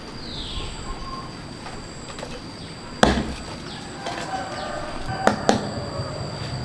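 Three sharp chopping knocks, as of a blade striking into wood or a fruit stem: one about three seconds in, then two in quick succession about two seconds later.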